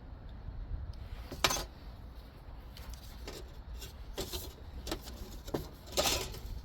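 Light metallic clinks and rattles of small steel parts being handled, a few separate clicks with a longer rattle near the end, over a low rumble.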